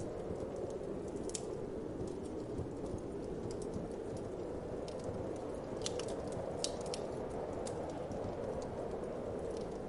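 Wood fire crackling with scattered sharp pops and snaps, a cluster of them about six to seven seconds in, over a steady low rush of wind.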